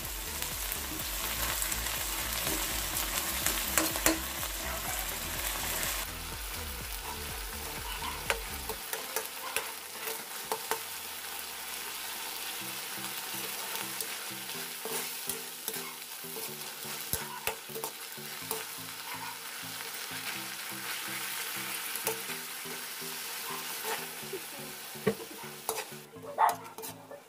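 Canned tuna with garlic and onion sizzling in oil in a wok, stirred with a metal spatula that scrapes and clicks against the pan. The sizzle is louder for the first few seconds, then settles lower.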